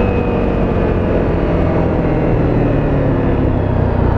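Honda CRF250L's single-cylinder four-stroke engine running under way, its note slowly falling as the bike eases off and slows.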